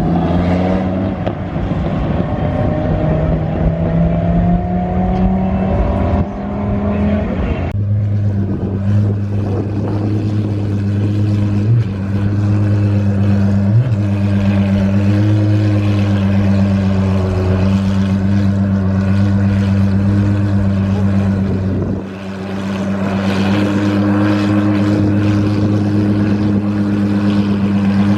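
Engine running loudly at held, steady revs, its pitch rising slowly over the first several seconds; the sound changes abruptly about eight seconds in and again dips briefly a little after twenty seconds.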